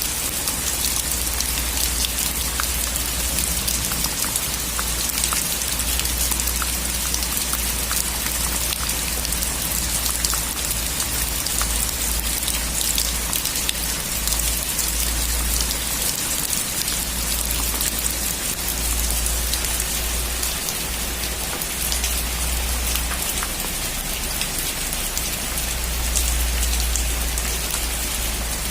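Steady heavy rain on a metal roof, with many individual drops ticking sharply on the sheet iron over the dense patter. A low rumble swells and fades underneath.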